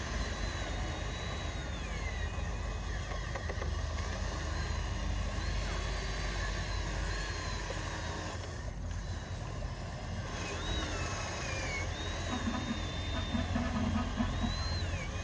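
Small electric motors of radio-controlled model trucks whining, rising and falling in pitch as they speed up and slow down, over a steady low rumble.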